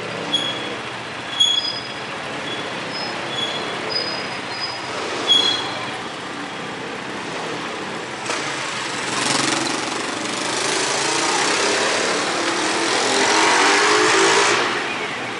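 Vehicle noise: several short high squeaks in the first few seconds, then the sound of a vehicle swelling and rising in pitch over several seconds before easing off near the end.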